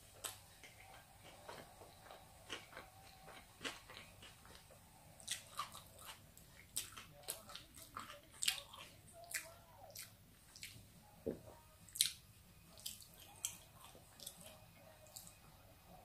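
A person chewing a mouthful of chicken fajita wrap in a flour tortilla: irregular mouth clicks and smacks, about one or two a second.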